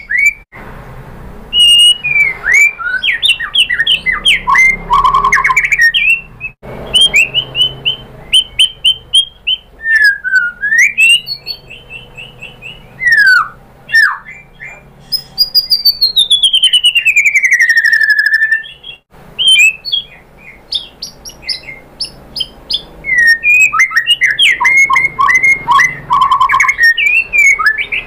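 White-rumped shama singing a loud, varied song in phrases: fast runs of chattering notes and trills, slurred whistles, and a long falling whistle about halfway through.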